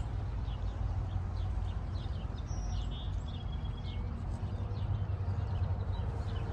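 Several small backyard songbirds chirping and calling: a steady stream of short high notes, with a few held whistled notes about two and a half to four seconds in, over a low steady rumble.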